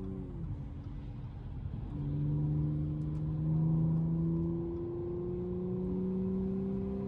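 2012 Audi S5's supercharged 3.0 V6 under way: the engine note drops in pitch early on, then from about two seconds in the car pulls steadily, the note slowly rising and loudest around the middle.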